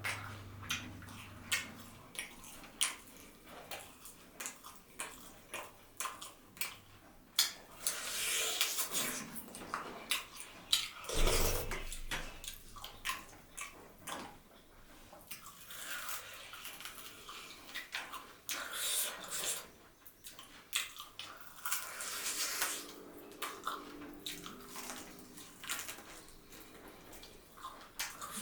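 Close-up wet chewing and lip-smacking of someone eating, made up of many short sharp clicks and moist bursts.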